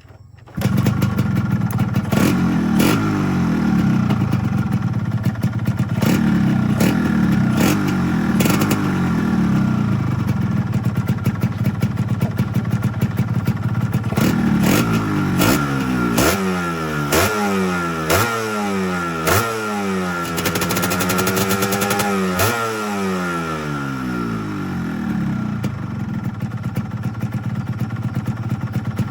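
Yamaha RXZ two-stroke single-cylinder motorcycle engine with a Catalyzer aftermarket exhaust, running and being revved. It is blipped repeatedly in the middle, each rev rising and falling quickly, with one longer rev, and runs steadily before and after.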